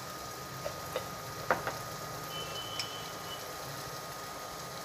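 Onions and tomatoes sizzling gently in oil in a steel pan, a steady low hiss, with a couple of light clicks about a second and a half in and a brief high tone in the middle.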